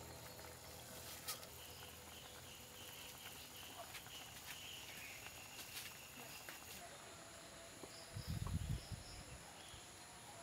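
Faint outdoor ambience with a run of repeated high insect chirps, and a short low rumble about eight seconds in.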